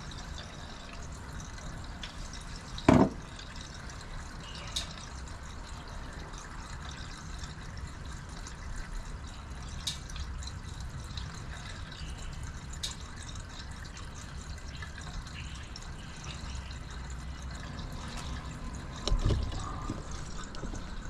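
Water running or trickling steadily, with a sharp knock about three seconds in and a duller thump near the end.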